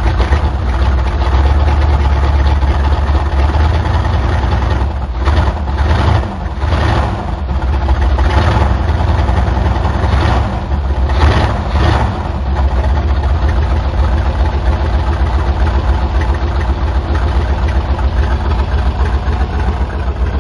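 1977 Chevy C10's 350 small-block V8 running with no exhaust hooked up, a loud steady idle, with a few brief revs between about five and twelve seconds in.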